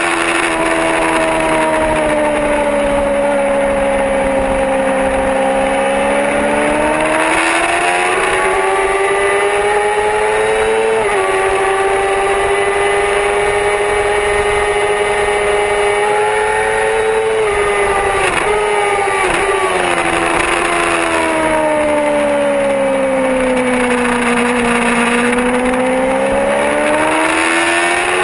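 Yamaha R6 inline-four sport bike engine at full racing pace: the revs sink and climb again through corners, with quick gear changes near the middle, over a steady rushing noise.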